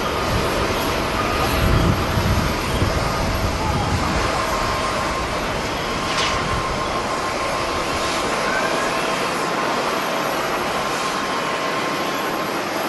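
Airliner jet engines running: a steady rushing noise with a thin high whine on top. Gusts of wind buffet the microphone for the first few seconds.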